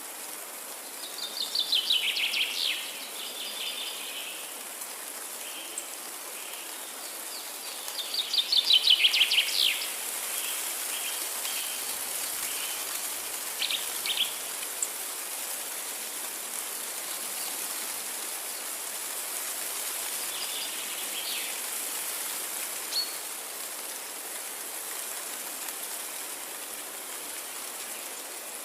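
A songbird sings a fast descending trill twice, about seven seconds apart, with a few fainter short calls later. Underneath is a steady hiss of forest ambience.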